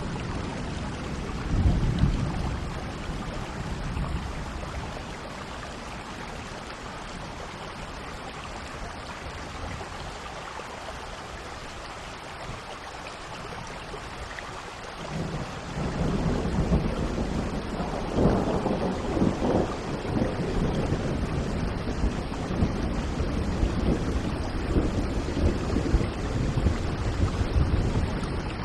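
Steady rain with thunder. A short rumble comes early on and fades, then about halfway through a long rolling peal of thunder swells up and keeps rumbling under the rain.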